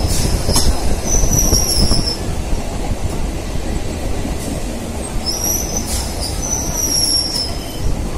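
EMU local train running on the rails: a steady rumble of wheels on track with a few sharp clicks. High-pitched wheel squeal comes twice, about a second in and again around six seconds.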